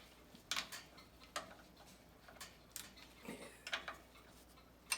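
Ratchet wrench clicking in short, irregular strokes as it loosens a bolt.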